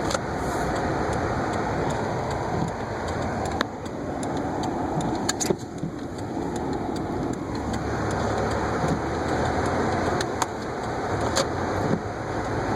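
Car driving through a snowstorm: a steady rush of engine and tyre noise on the snowy road, broken by a few sharp, irregular clicks.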